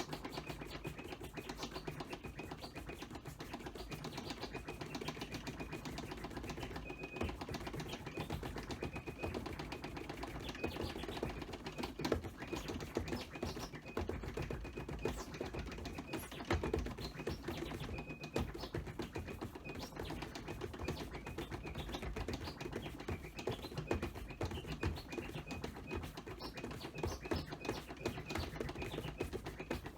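Turntable scratching played quietly, heard mostly as rapid, dense clicking of the crossfader and the hand-worked record, over a faint low rumble.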